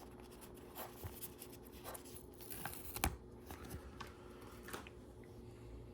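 Faint handling sounds of a sticker being peeled off a LEGO sticker sheet: soft rustles and a few light scratchy ticks of backing paper and small plastic parts, over a steady low hum.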